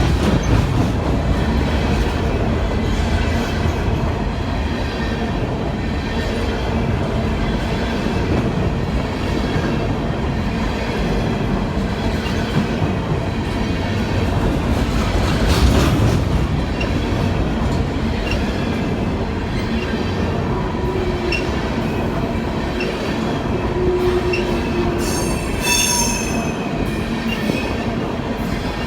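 A train rolling along with a steady rumble and rail clatter, and a loud clank about halfway through. Near the end, the wheels squeal briefly with a high ringing tone.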